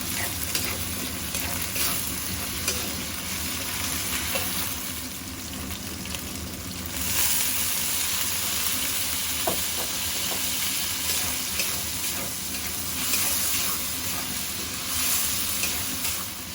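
Eggplant frying in hot oil in a pan while being stirred: a steady sizzle that swells louder a few times, with occasional light clicks.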